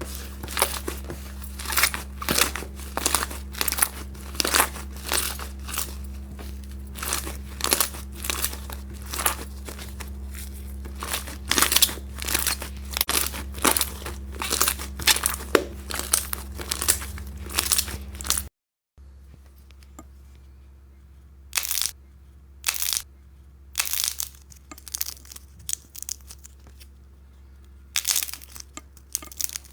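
Slime being squeezed and worked by hand, giving a quick run of small crackles and pops. After a cut about two-thirds of the way through, the crackles come more slowly, as separate squishes and crunches a second or more apart.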